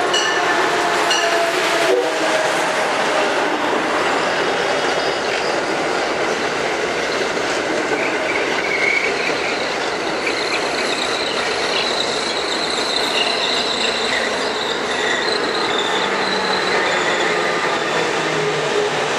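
Amtrak Acela Express electric trainset passing close by at speed: a steady rush of wheels and air, with a thin high squeal partway through.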